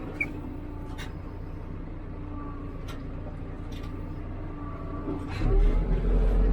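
Hidromek 102B backhoe loader's diesel engine running steadily, with a few faint clicks. About five seconds in, the engine grows much louder with a deeper rumble.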